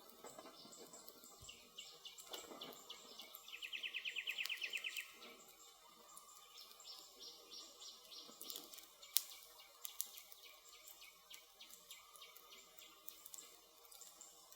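Wood fire crackling with scattered small pops and a couple of sharper snaps a little past the middle. A bird sings a fast, evenly pulsed trill for about a second and a half a few seconds in.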